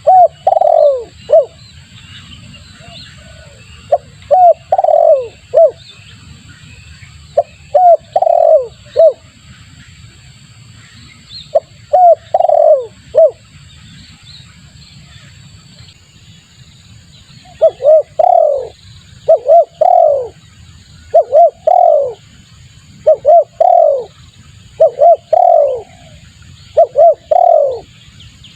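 Spotted dove cooing in repeated phrases of three or four notes. The phrases come a few seconds apart at first, then follow one another every couple of seconds from about halfway through, over a steady background hiss. This is a lure call used to attract wild spotted doves.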